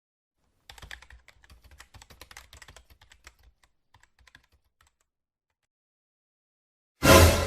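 Computer keyboard typing: a rapid run of key clicks for about four seconds, thinning out into a few scattered keystrokes. Near the end, a loud sudden hit rings on.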